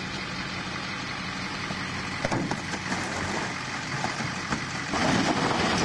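Car engine running steadily, with a few knocks and clatters, getting louder over the last second.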